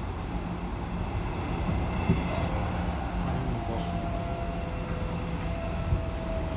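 Hanshin 5550-series electric train running, heard from inside the passenger car: a steady rumble of wheels on rail, with a faint steady whine from the Mitsubishi IGBT-VVVF traction drive coming in about two and a half seconds in.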